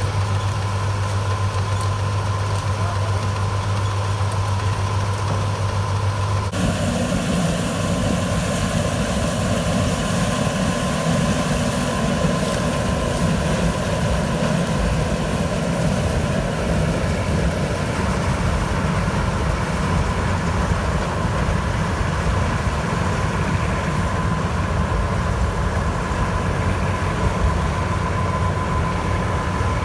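Preet 987 combine harvester's diesel engine and machinery running steadily with a thin high whine. About six seconds in the sound shifts abruptly to a noisier, more rattling running with more hiss.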